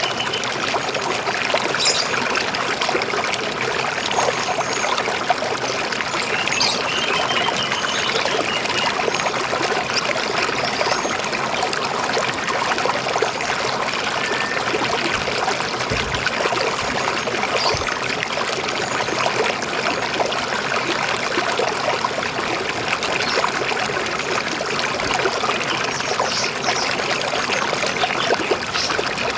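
River water flowing steadily, with a few brief, faint bird chirps now and then.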